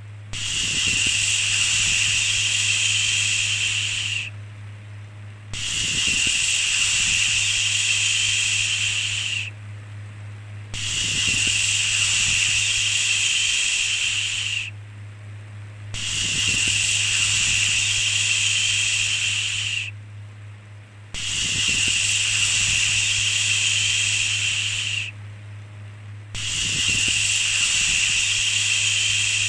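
A long shushing 'shhh' sound, repeated six times. Each lasts about four seconds, with a pause of about a second between. A steady low hum runs beneath.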